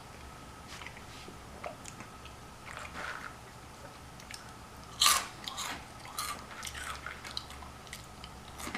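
Close-miked eating of crunchy snack food: faint chewing clicks, then a loud crunching bite about five seconds in, followed by several smaller crunches.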